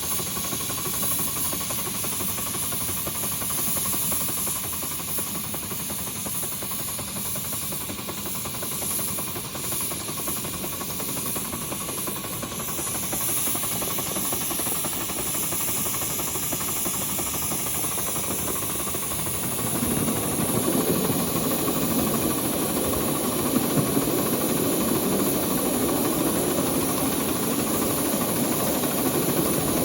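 Live-steam scale 2-8-2 Mikado locomotive under way, with a steady steam hiss. About two-thirds of the way through, the running sound grows louder and fuller.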